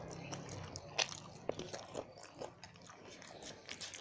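Close-up eating sounds: a person chewing and biting food, with a run of short wet clicks and crunches, the sharpest about a second in.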